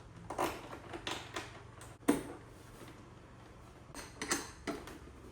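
Light metallic clinks and knocks from battery cable connectors and hardware being handled while wiring batteries in series, a scatter of short strikes with the sharpest one about two seconds in.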